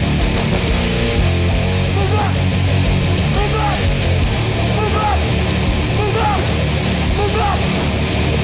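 Loud heavy hardcore music with distorted electric guitars and bass. From about two seconds in, short bending notes repeat above the dense low chugging.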